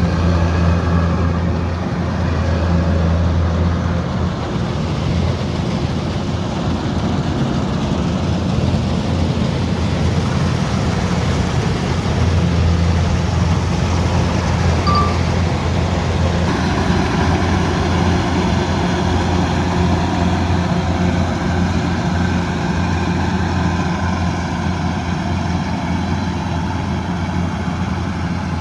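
Kubota DC108X combine harvester's diesel engine running steadily under working load, a continuous low hum whose character shifts slightly a little past halfway.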